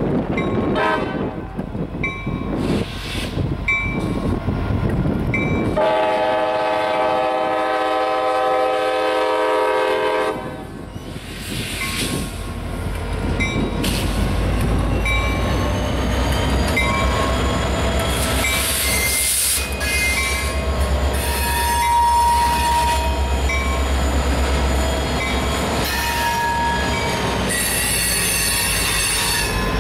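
A grade-crossing bell dings about once a second as a CSX freight train approaches. About six seconds in, the lead diesel locomotive sounds its air horn for about four seconds. The locomotives then rumble past with brief wheel squeals as the freight cars roll by.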